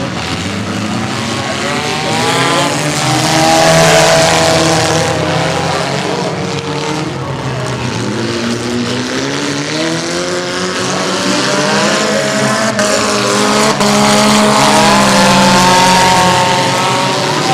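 Several mini-class derby cars' engines racing together on a figure-8 track, their pitches rising and falling as they accelerate and lift off, with tyre noise underneath. It is loudest about four seconds in and again near the end.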